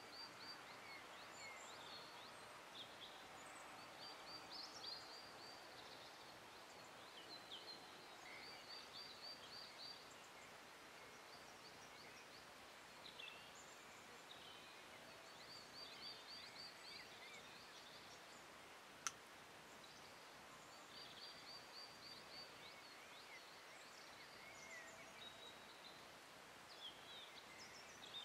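Faint outdoor birdsong: small birds chirping and giving short, fast, high trills again and again, with one sharp click about two-thirds of the way through.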